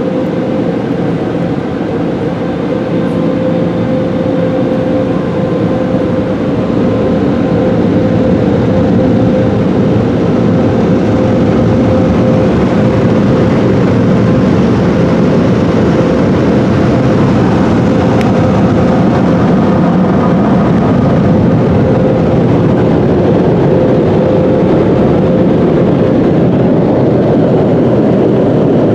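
Mark VII car wash dryer blowers running: a loud, steady rush of air with a steady whine, heard from inside the car. It grows louder about seven seconds in as the blowers close in.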